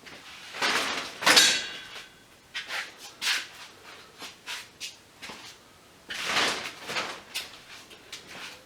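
Metal parts from a dismantled light fixture being handled and sorted as scrap: scattered clinks and scrapes, one a little over a second in ringing briefly.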